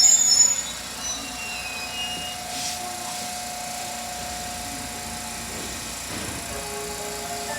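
Train wheels squealing, cutting off about half a second in. Then a steady mechanical whirr with a faint high whine.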